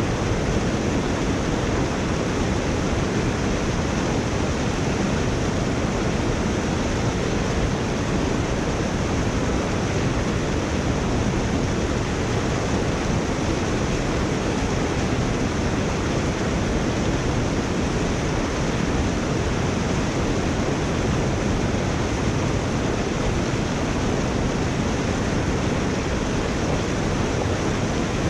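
Steady rush of floodwater flowing through a culvert drain, an even, unbroken noise.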